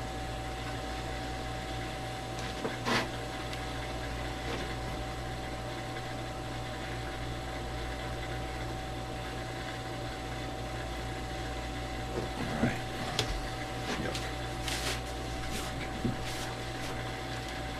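Steady workshop hum with a faint steady tone, broken by a few light knocks and clicks of wooden parts and plexiglass being handled and fitted: one about three seconds in and several more near the end.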